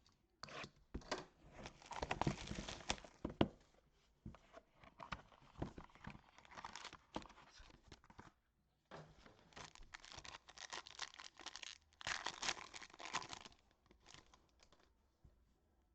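Trading card box packaging being torn open and crinkled by hand, in two main bursts of tearing with small clicks and handling noises between.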